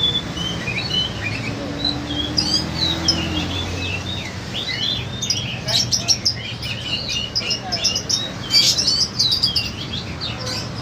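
A crowd of caged lovebirds chirping: many short, shrill, overlapping chirps that grow denser about halfway through, over a low background murmur.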